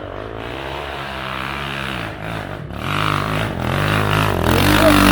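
Enduro motorcycle engine revving hard under load on a steep hill climb, its revs rising and dipping and growing louder toward the end.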